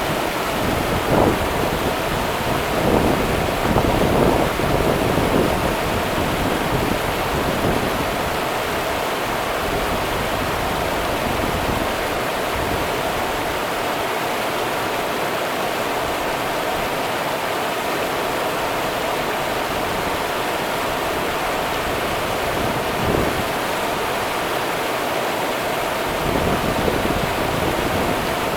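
The Rio Grande's river water running: a steady rush, with a few brief louder splashes in the first few seconds and a couple more later on.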